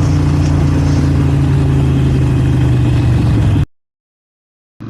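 Harley-Davidson Sportster 883's air-cooled V-twin engine running at a steady speed, loud and close. It cuts off suddenly near the end, followed by about a second of total silence.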